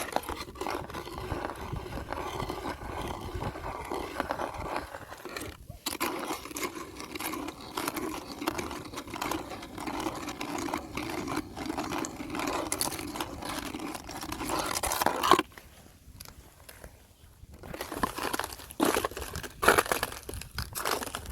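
Fresh thin ice crunching and crackling for about fifteen seconds, stopping abruptly. After a short lull come a few sharp, loud cracks near the end.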